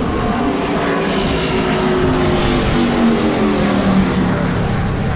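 V8 race car engine running hard past the listener, its note sliding down in pitch over a few seconds.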